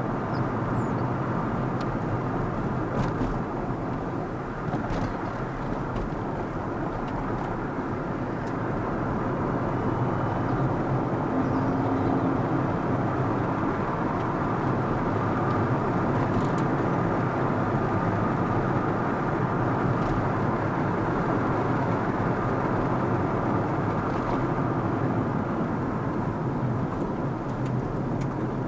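Steady road and engine noise of a car driving, heard from inside the cabin, with a few faint clicks.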